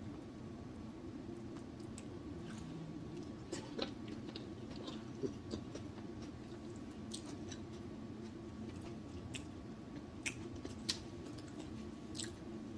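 Close-miked chewing and mouth smacking of saucy food, with scattered wet clicks over a steady low hum.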